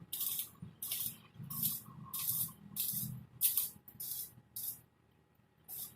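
Short hissing spray bursts, about nine in a row, roughly one every two-thirds of a second, with a longer gap before the last one near the end.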